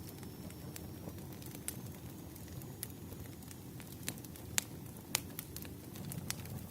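Wood fire crackling: a steady low rumble of burning logs with scattered sharp pops, the loudest about four and a half and five seconds in.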